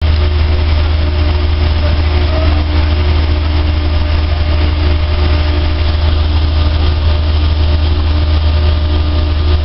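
A dryer running steadily: a strong, constant low hum with an even rushing noise over it and no change in speed.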